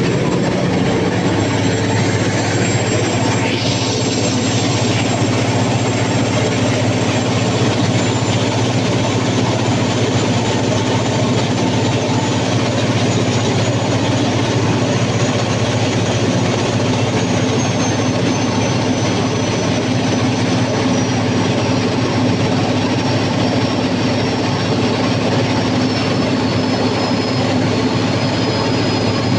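Cummins KTA50 V16 turbocharged diesel genset engine running steadily under load testing after a general overhaul, with a faint high whine that slowly drops in pitch.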